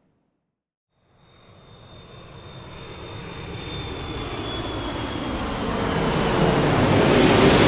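Airplane jet engine noise fading in after about a second of silence and growing steadily louder, a broad roar with a high whine that drops slightly in pitch and a steady low hum coming in near the end.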